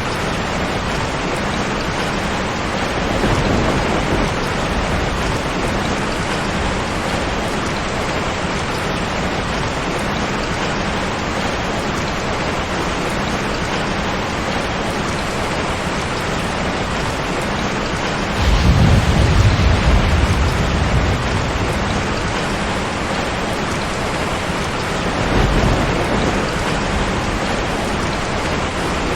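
Steady rain falling, with low rolls of thunder: a short one a few seconds in, a longer and louder rumble about two-thirds of the way through, and a brief one near the end.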